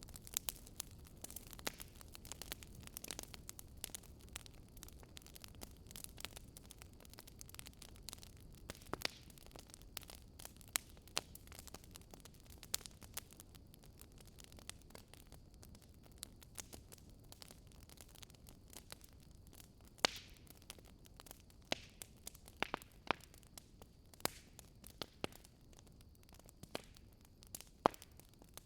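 Wood fire crackling, with irregular pops and snaps over a low steady rumble of burning.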